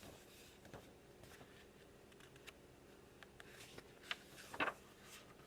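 Quiet room tone with scattered light clicks and rustles of handling; the two loudest clicks come about four and four and a half seconds in.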